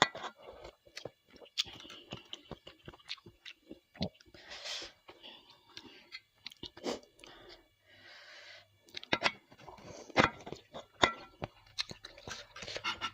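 Chewing and biting bakso meatballs, with irregular wet clicks and smacks and two longer hissing stretches about four and eight seconds in.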